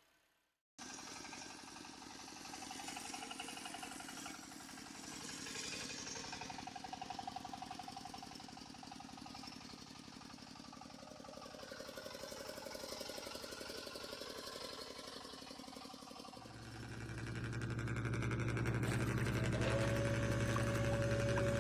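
Steady engine-like running of remote-control model trucks, growing louder and deeper about two-thirds of the way in. A steady held tone joins near the end.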